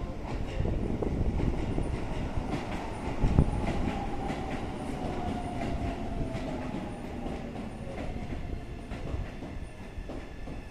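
Keisei commuter train pulling into the station and slowing: wheels knocking over rail joints with a heavier knock about three seconds in, and a whine that falls in pitch as the train decelerates.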